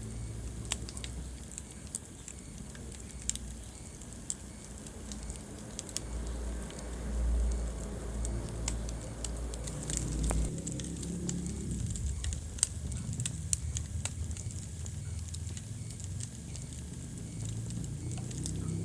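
Wood fire crackling in a fireplace: scattered sharp pops and snaps over a low rumble.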